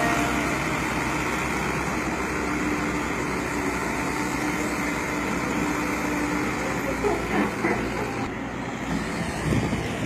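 Heavy diesel engine running steadily, with a few brief louder bumps near the end.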